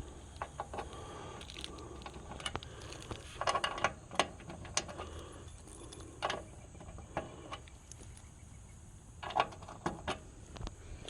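A ring of keys jangling and clinking as it is handled, in irregular clicks and rattles with louder flurries about three and a half seconds and nine seconds in.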